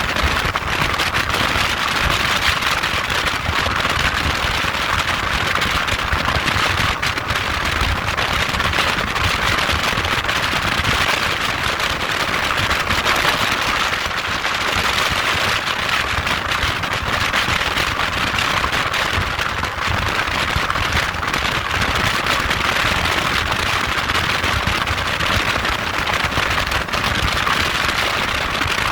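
Motorbike engine running steadily, a dense rapid crackling noise at an even level.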